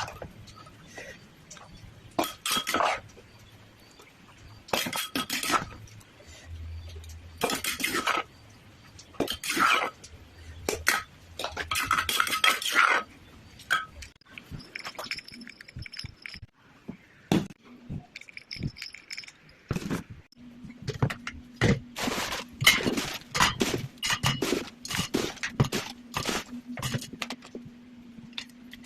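Utensils clinking and scraping against dishes in short bursts, coming every couple of seconds at first and then as quicker, denser clicks; a faint steady hum comes in about two-thirds of the way through.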